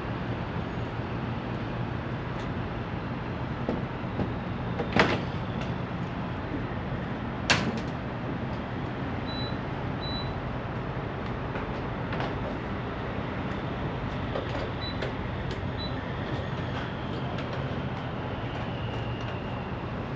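Semi-truck running down the road with a loaded trailer, a steady engine drone and road noise filling the cab. Two sharp knocks or rattles stand out, about five seconds in and again about two and a half seconds later.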